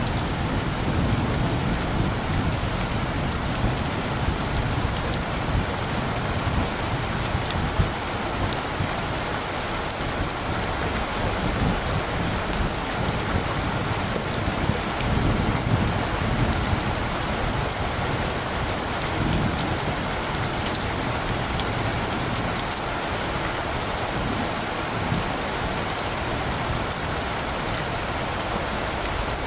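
Steady rain falling, a dense hiss of drops hitting surfaces, with a low rumble of light thunder underneath that swells and fades.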